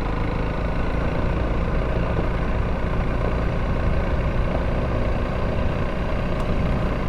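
Honda CRF300L's single-cylinder engine running at a steady pace while riding, heard from the helmet camera, with tyre and road rumble.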